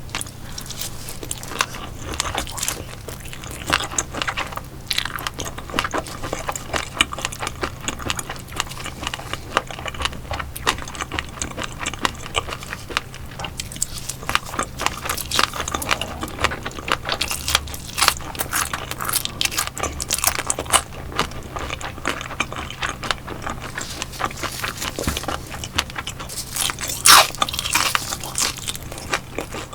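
Close-up biting and crunchy chewing of crispy fried and grilled fish (sailfin sandfish and sand eel), with many quick crackles. The sharpest crunch comes near the end.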